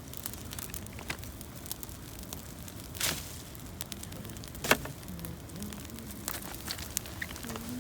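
Campfire of gathered branches and dry leaves crackling, with scattered sharp snaps and two louder pops, about three seconds in and just short of five seconds in.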